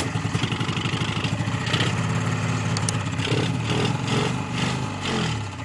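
Vintage two-stroke snowmobile engine running just after starting, with rapid uneven firing pulses. Near the end it slows and dies out.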